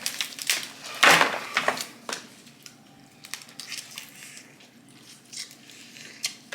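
Snow crab leg shells being cracked and snapped open by hand: a quick run of sharp, irregular cracks, loudest about a second in, then sparser snaps.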